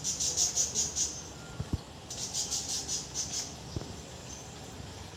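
Brown-chested jungle flycatcher giving two high, rapid rattling trills, each about a second long and pulsing about ten times a second. There are two faint low knocks between them.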